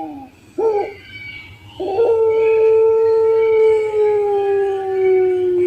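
Puter pelung dove cooing: two short, wavering coos, then about two seconds in, one long drawn-out coo held for nearly four seconds that sinks slowly in pitch.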